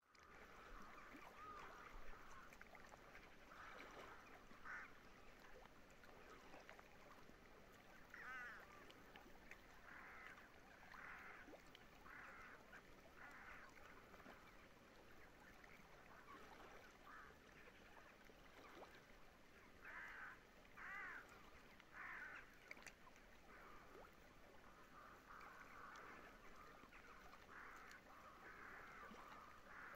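Faint waterbirds calling over the lake: many short calls at irregular intervals, a few with a wavering pitch, over a faint background hiss.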